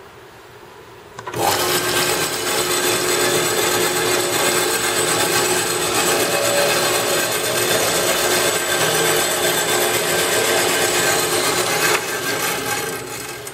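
Valuemaster 9-inch geared-head band saw starting abruptly and running loudly with a rasping, sawing sound, then shutting off near the end and running down over about a second.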